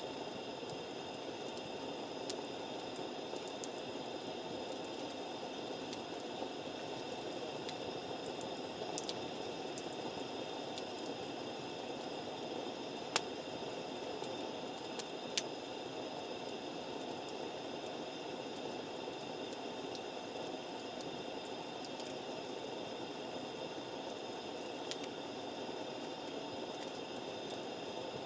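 Campfire burning with a steady hiss and a few sharp crackling pops, the loudest about halfway through.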